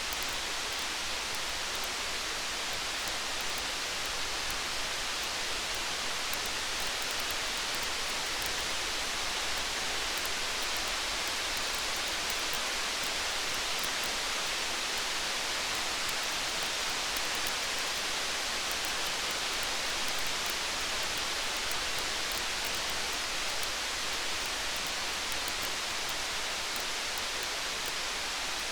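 Steady rain hiss, even and unbroken, with faint scattered fine ticks on top.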